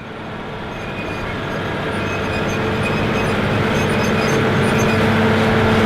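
Allis-Chalmers 7080 tractor's repowered Cummins 8.3-litre diesel running steadily under load while pulling a chisel-shank mulch tiller, growing steadily louder.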